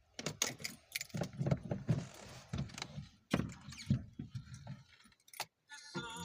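Car keys jangling and clicking, with scattered knocks and rustling. Music starts near the end.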